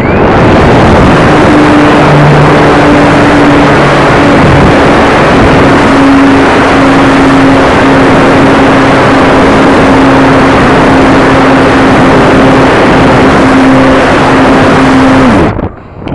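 Onboard-camera audio from an electric RC combat plane in flight: a very loud rush of wind over the microphone with a steady hum from the motor and propeller. It cuts off suddenly near the end, just after the hum drops in pitch.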